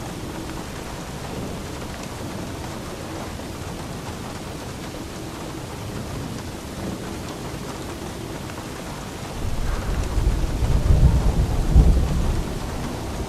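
Steady rain falling, with a roll of thunder that rumbles up about nine and a half seconds in, peaks near twelve seconds and fades away.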